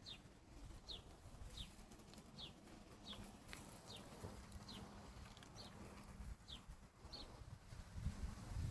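A small bird calling over and over: a short, high, falling note repeated about every three-quarters of a second. Low rumbling handling or wind noise rises near the end.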